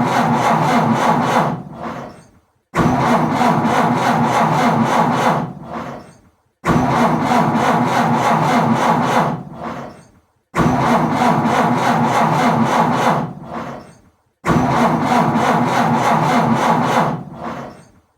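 A car engine cranking on its starter motor without catching: repeated start attempts, each starting abruptly, lasting two to three seconds and fading out, with a short pause before the next, about every four seconds.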